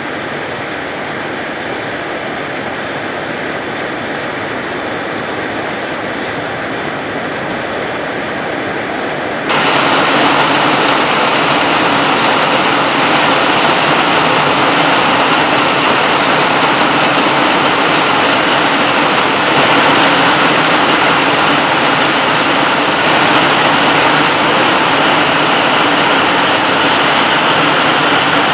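Heavy rain falling, a steady hiss that jumps abruptly louder and brighter about nine and a half seconds in.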